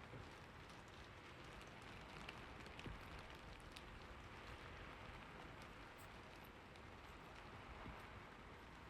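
Faint, steady rain, with a few light ticks scattered through it.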